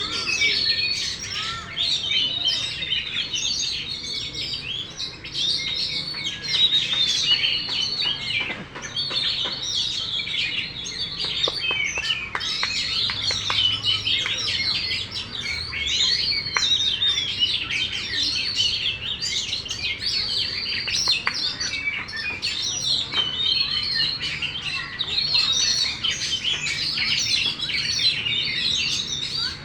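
Oriental magpie-robin (kacer) singing without pause, a dense stream of rapid, varied whistled and chirping notes.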